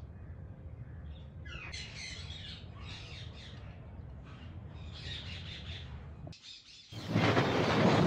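Birds chirping and squawking in short, high calls over a low steady hum. About seven seconds in, after a brief dip, a much louder rough rushing noise cuts in.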